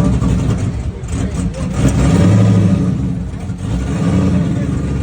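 Oldsmobile Cutlass engine running, with a rev about two seconds in that holds for about a second before dropping back.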